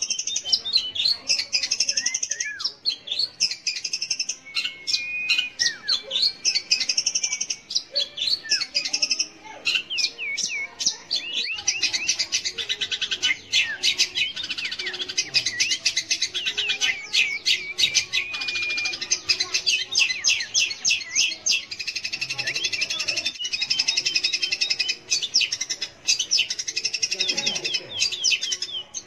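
Long-tailed shrike (cendet) singing a fast, continuous stream of sharp chirps and quick falling notes, packed even more densely from about halfway through.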